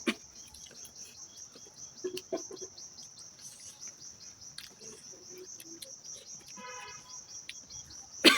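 Insects chirring steadily in the background, a high, finely pulsing drone, with small clicks scattered through and a short buzzy call about seven seconds in.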